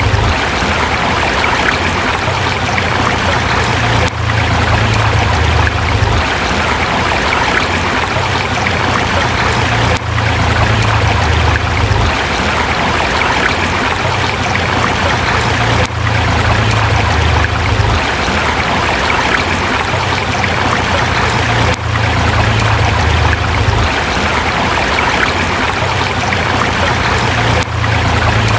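River water flowing and splashing over rocks, a steady, full rushing sound with a low rumble underneath and a brief dip about every six seconds.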